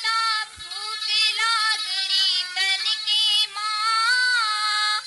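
A woman singing a Haryanvi film song: long held high notes that bend up and down in pitch, in phrases with short breaks between them.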